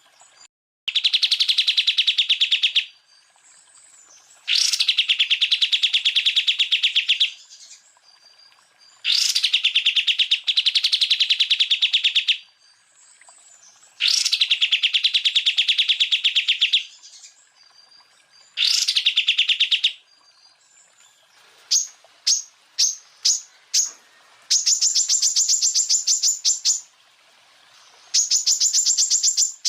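Cucak ijo (greater green leafbird) singing in repeated 'tembakan' bursts: five rapid trills of two to three seconds each, with short pauses between them. After about 22 s come five short sharp notes, then two higher, buzzier rapid trills.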